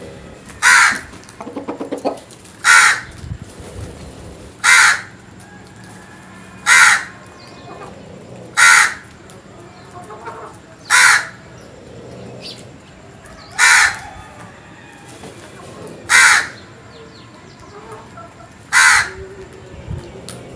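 A crow cawing: single loud, harsh caws repeated at a steady pace, about one every two seconds, nine in all. A brief rapid low rattle comes between the first two caws.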